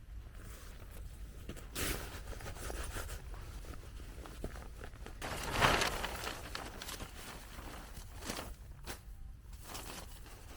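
Rustling, scraping and crunching from handling a nylon tarp and stepping about in snow while pitching it: a run of irregular noisy bursts, the loudest about six seconds in.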